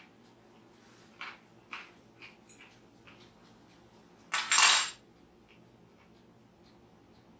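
A crisp pickle crunching as it is chewed, a few short crunches in the first couple of seconds, then a loud clatter of a metal fork against a glass canning jar about four and a half seconds in.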